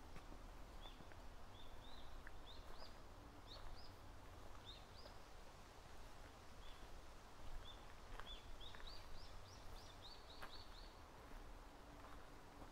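Faint songbird chirps: short rising notes repeated at irregular intervals, quickening into a run of about ten notes about two-thirds of the way in, over a steady low background noise.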